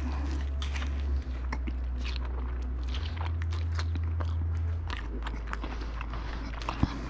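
A person chewing a mouthful of steak-and-chicken fajita, heard close up: irregular soft crunches and wet clicks of biting and chewing over a steady low hum.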